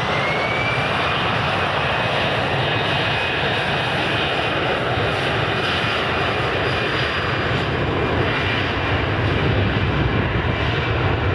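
Airbus A320 jet engines running at high power on departure: a steady, loud roar with a high whine that climbs and levels off about a second in, then holds.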